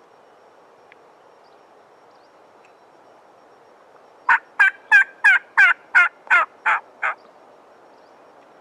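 Turkey yelps: a series of nine loud, evenly spaced notes, about three a second, each dropping in pitch, the hen-style yelping used to call in a gobbler.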